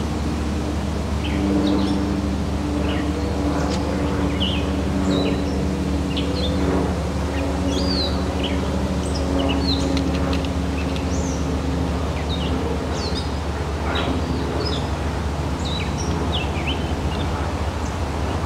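Small songbirds chirping again and again in short high notes over a steady low engine drone, whose hum fades somewhat about halfway through.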